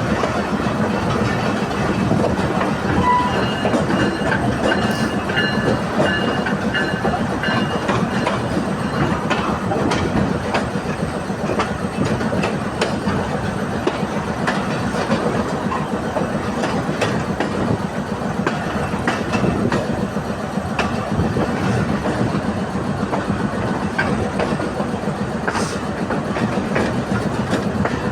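Express passenger train passing at high speed: a steady rumble of the coaches, with the wheels clicking over the rail joints.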